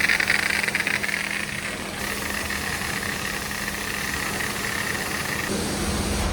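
A vehicle engine running under a steady hiss. The sound changes abruptly about two seconds in and again near the end.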